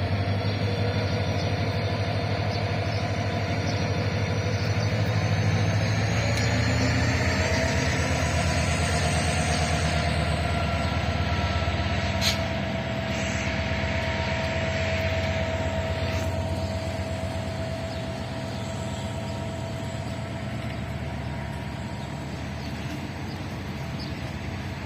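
Diesel locomotive running under power, its engine drone steady and a high whine rising in pitch over the first nine seconds before levelling off as it gathers speed. A single sharp click comes about twelve seconds in.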